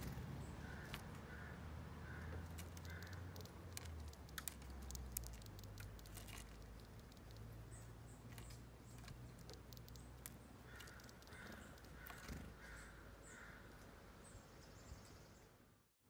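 Birds calling: one bird gives two runs of four or five evenly spaced notes, about a second in and again near eleven seconds, with faint high thin calls and scattered light clicks between, over a low steady rumble.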